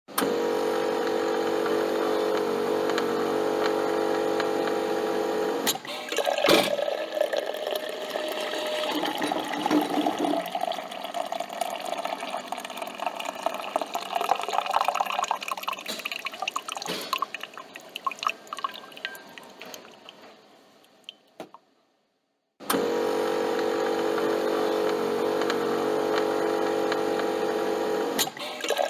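Coffee machine running: the pump hums steadily, then stops with a click and gives way to liquid trickling and dripping that fades out. The pump hum starts again abruptly near the end.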